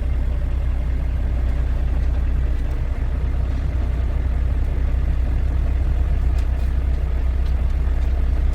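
Steady low rumble of a truck's diesel engine, even and unchanging throughout.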